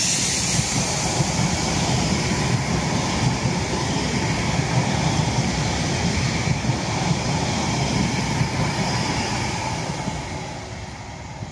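A Northern Class 331 electric multiple unit passing close by: a steady rush and rumble of wheels on rail with small irregular knocks, dying away near the end as the rear cab goes past.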